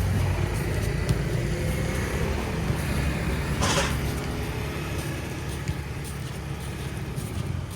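Low engine rumble of a passing motor vehicle, fading gradually over the last few seconds, with a brief hiss about three and a half seconds in.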